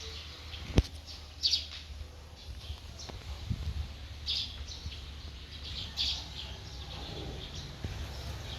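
A bird chirping in short, high calls, three main ones a couple of seconds apart, over a low rumble. A single sharp click comes just under a second in.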